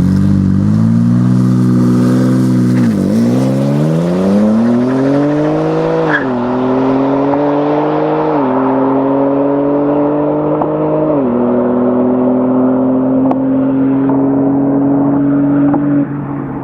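BMW M4 Competition's twin-turbo straight-six accelerating hard through the gears under full throttle. The pitch climbs and drops at each of four upshifts, rising more slowly in each higher gear, then holds nearly steady before cutting off near the end.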